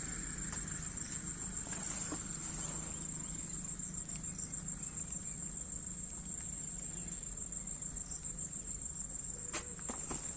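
Crickets trilling in one steady, unbroken high note, with a few short clicks near the end.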